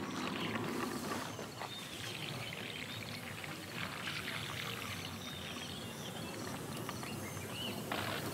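A steady rushing noise with faint, repeated high chirps and a few soft clicks.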